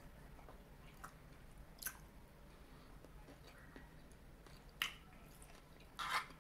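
Quiet chewing of a mouthful of shrimp and broccoli, with a few short sharp clicks spread through, the loudest cluster near the end.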